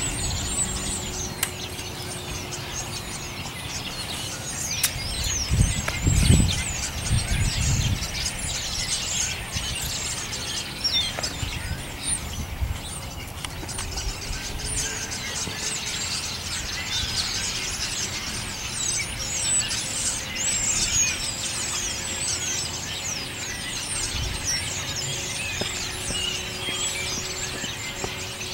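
A large flock of birds calling all at once: a dense, continuous chatter of short, high, downward-sliding chirps and squeals. A brief low rumble comes about six seconds in.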